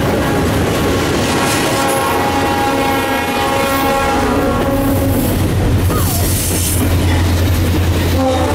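Double-stack intermodal well cars of a CSX freight train rolling past close by, wheels clacking over the rail joints, while a locomotive horn sounds over the train noise through most of it. A deep rumble grows stronger in the second half.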